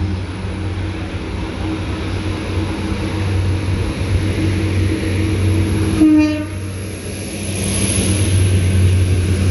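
A train's diesel engine running with a steady low hum, and a short horn blast about six seconds in. Near the end the hiss of rolling noise rises as the train draws closer.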